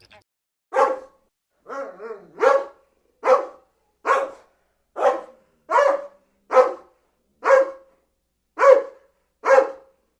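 A dog barking repeatedly, about a dozen single barks a little under a second apart.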